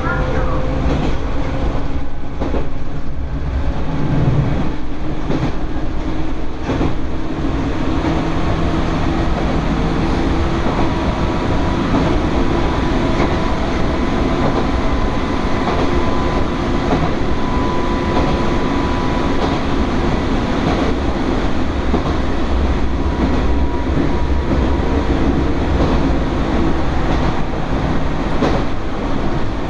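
Electric commuter train running on the Izuhakone Railway Sunzu Line, heard from inside the carriage. Steady wheel and rail noise, clacking over rail joints in the first few seconds, with a faint motor whine that slowly rises in pitch.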